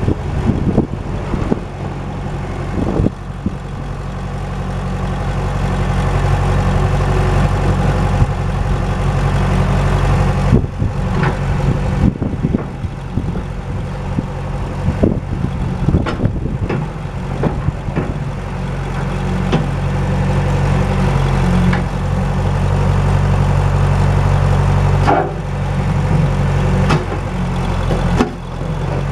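John Deere JD500 Series-B loader backhoe engine running steadily, with scattered clunks and knocks from the machine.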